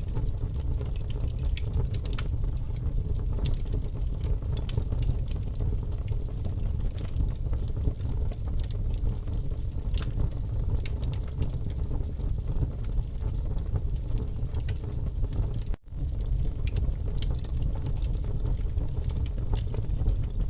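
Campfire burning, with scattered crackles and pops over a steady low rumble. The sound cuts out for an instant about three-quarters of the way through.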